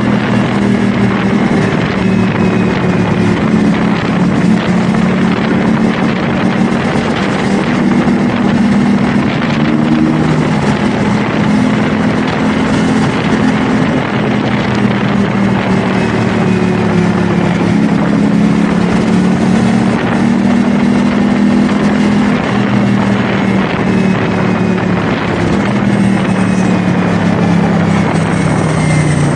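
CFMoto 450SR S sport bike's parallel-twin engine running under way at a fairly steady speed, its note rising and falling gently, with wind buffeting the microphone.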